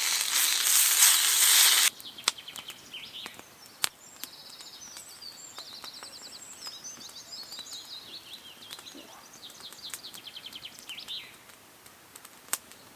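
Food sizzling loudly in a pan over a campfire, cutting off abruptly about two seconds in. A small songbird then sings a run of rapid, high trills and chirps for several seconds, with a few faint clicks.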